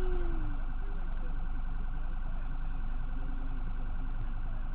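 Police car sirens sounding steadily, a fast-warbling tone, over a low rumble.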